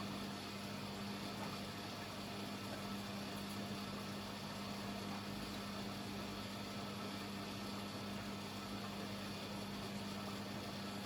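Beko WML 71433 NP washing machine running with a steady, even hum and no change in pace.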